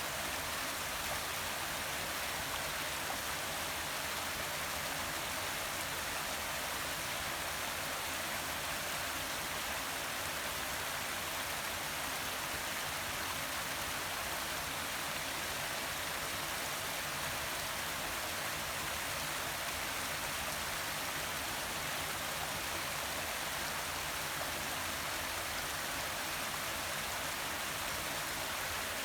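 Forest waterfall, a steady even rush of falling and splashing water.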